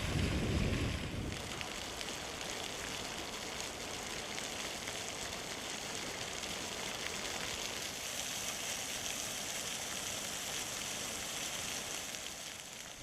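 Fly Geyser's hot water jetting steadily from its mineral cones, an even rushing hiss of spray and splashing. Wind rumbles on the microphone for about the first second and a half.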